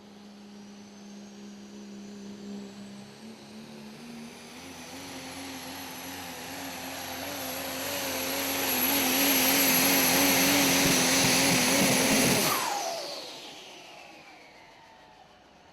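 Super stock diesel pulling truck at full throttle: the engine note climbs and grows louder over about twelve seconds, with a high turbo whistle rising above it. The engine then shuts off abruptly, the end of the pull, and the whistle falls away as the turbos spool down.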